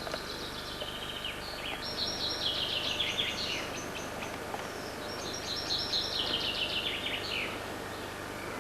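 A songbird singing two phrases, each a few seconds of rapid notes that step down in pitch, with a pause between them, over a steady background hiss.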